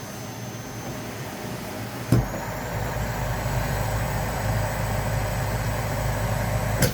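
A vacuum cleaner is switched on with a click about two seconds in. Its motor spins up to a steady high whine over a rush of air and low rumble. It is switched off with a click near the end.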